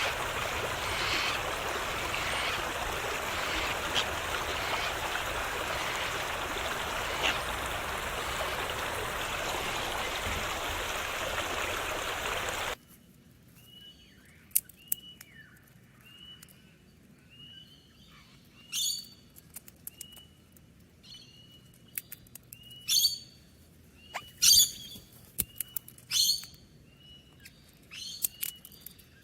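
Parrots chirping. For roughly the first half a steady rushing noise carries faint chirps. It then cuts suddenly to a quieter recording of a parrot repeating short chirps, with loud, shrill calls every second or two in the second half.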